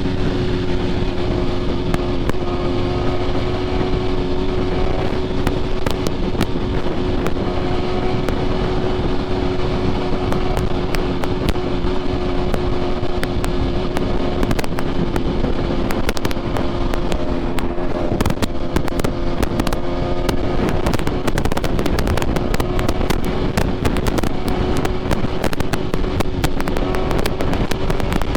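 BMW S1000RR inline-four sport bike, fitted with an aftermarket SC Projects exhaust, running at a steady cruising pitch under way. A dense crackle rides over it and gets heavier in the second half.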